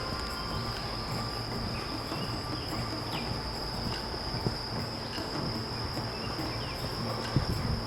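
Chorus of insects in summer woods, a steady high-pitched drone, with faint bird chirps now and then and a low background rumble.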